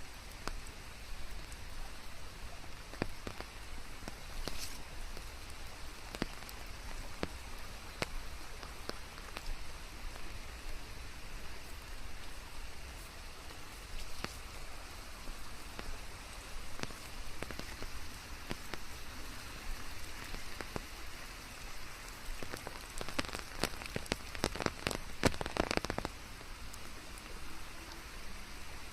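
Steady rain falling, with scattered individual drops ticking. A quick flurry of louder drops comes a few seconds before the end.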